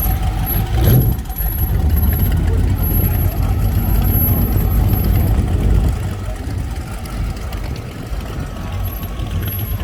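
Car engine idling at low revs with a low rumble, and a single thump about a second in.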